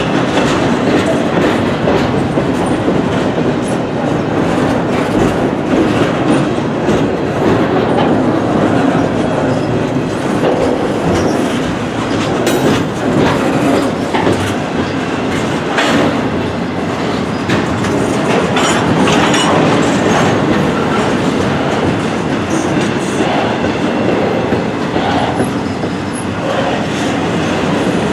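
Double-stack intermodal wellcars of a freight train rolling past at close range: a steady, loud rumble of steel wheels on rail, with a few sharp clicks along the way.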